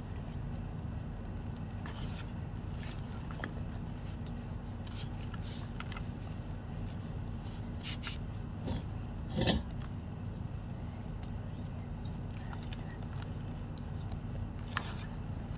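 White gym chalk crunching, with scattered small crackles and one loud crunch about halfway through, over a steady low hum.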